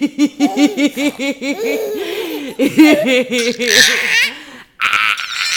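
Baby laughing: a quick run of belly laughs, about six a second, then longer drawn-out laughs, and a high-pitched squeal near the end.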